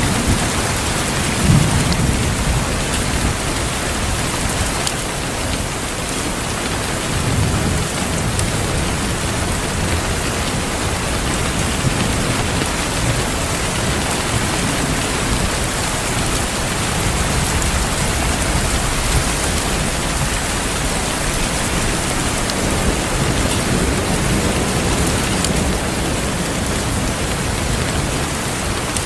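Steady heavy rain with low rolls of thunder rumbling under it, the strongest about a second and a half in.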